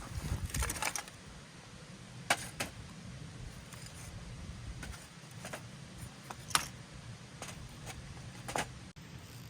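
A brief clatter, then scattered sharp clicks and taps at irregular intervals over a low steady hum.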